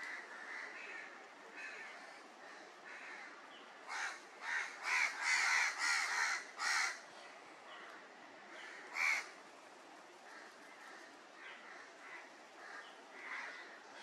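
Birds calling: a run of about six loud, closely spaced calls from about four to seven seconds in, one more about nine seconds in, and fainter calls scattered around them.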